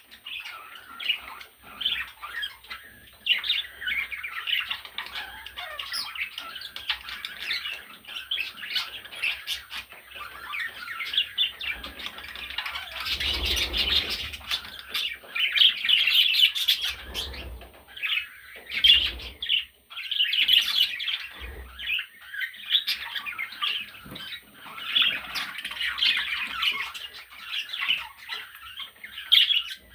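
Budgerigars chattering and squawking continuously in quick, warbling calls, with a few low thumps now and then.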